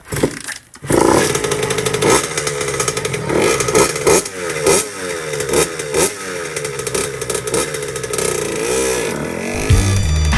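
Small two-stroke Honda dirt bike engine starting about a second in, then revved up and down repeatedly, freshly rebuilt with new clutch plates and a new top end.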